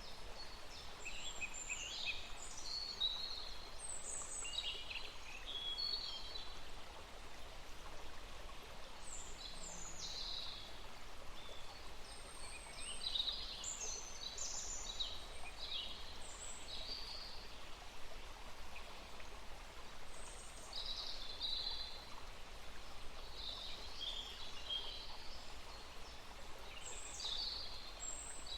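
Songbirds chirping and singing in quick clusters of short high notes, over a steady background hiss.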